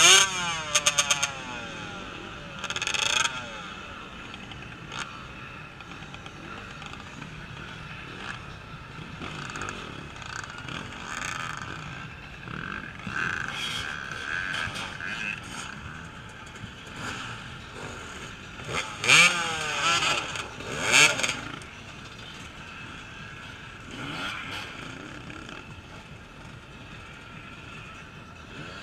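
Off-road racing motorcycles revving hard as they pass and clamber over logs on a cross-country course. The loudest passes come at the very start, about three seconds in and around twenty seconds in, with engine pitch climbing and falling; fainter engines run in between.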